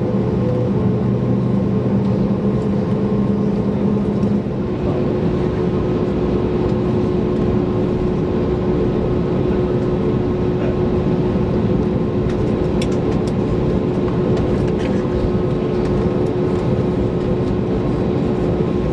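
Airbus A321neoLR's engine and airflow noise heard from inside the passenger cabin: a loud, steady rumble and hiss with a steady hum, and a lower hum that fades out about four and a half seconds in.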